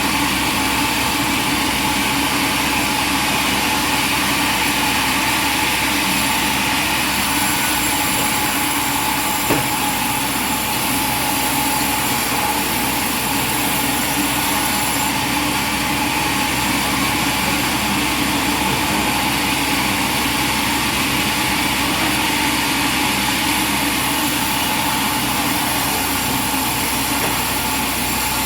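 A machine engine running steadily, with no change in speed, and one short click about nine and a half seconds in.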